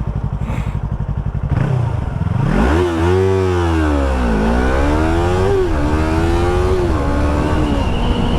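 Yamaha R3's parallel-twin engine on the move: a low steady rumble at first, then about two and a half seconds in it revs up hard under acceleration, with the pitch dropping three times as the rider shifts up through the gears.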